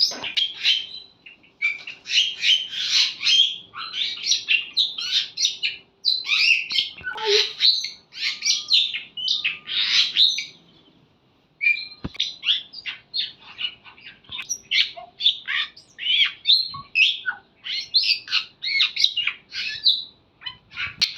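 A flock of small birds chirping, many short calls overlapping with one another. They break off for about a second midway, and there is a single sharp click just after the pause.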